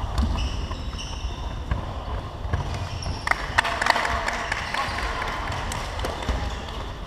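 Basketball game in play on an indoor court: a ball bouncing, with scattered knocks and brief high squeaks over a steady low rumble.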